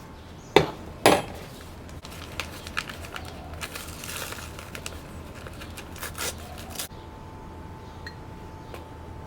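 Kitchen handling sounds while preparing a mug cookie: two sharp knocks about half a second apart, then around five seconds of crinkling with light clicks. A faint steady hum is heard near the end.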